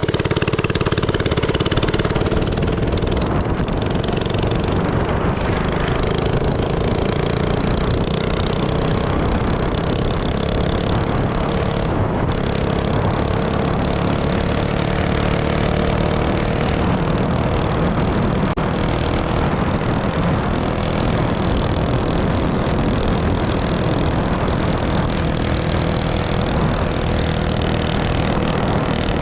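Minibike engine running through its new, very loud exhaust while being ridden, its pitch climbing slowly and then holding steady.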